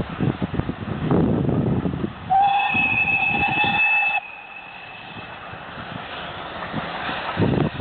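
Steam locomotive whistle sounding one steady blast of about two seconds, a couple of seconds in, over the rumble of the moving train.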